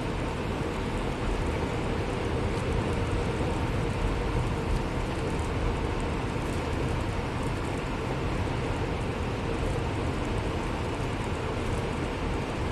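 Steady engine and road noise heard inside a moving bus, an even rumble with a faint steady hum.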